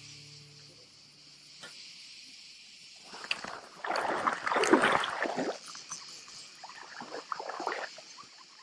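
Water splashing and sloshing for about two and a half seconds near the middle, with a few smaller splashes after it, over a steady high hiss of insects.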